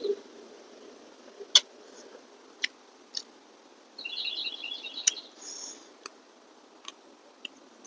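Eating sounds: a series of sharp wet mouth clicks and smacks, spaced irregularly, while chewing noodles and chicken. About four seconds in, a bird sings a short rapid chirping trill.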